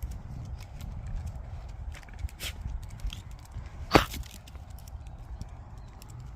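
Light footsteps over a steady low rumble, with one sharp click about four seconds in.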